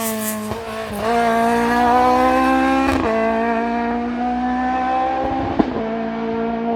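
Hill-climb race car accelerating hard up the course, its engine climbing in pitch through each gear and dropping back at upshifts about a second in, three seconds in and near the end. The sound fades in the highs as the car pulls away.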